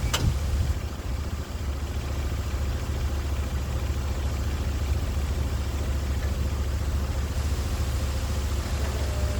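Sawmill engine running steadily, a constant low drone.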